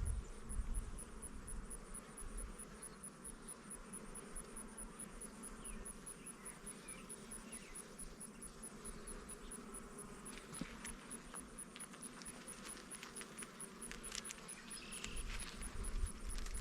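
Honeybees buzzing around an opened hive, stirred up as the frames are worked. A few faint clicks and taps come in the second half.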